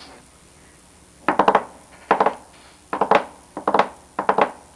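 A frog croaking in a regular series, about one short pulsed croak every 0.7 seconds, beginning a little over a second in.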